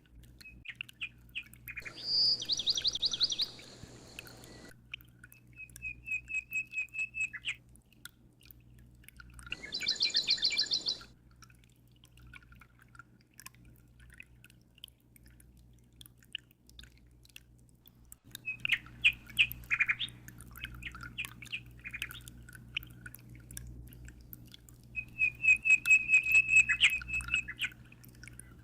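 Songbirds chirping and singing fast trills, in runs of a few seconds with pauses between, over a faint steady low hum.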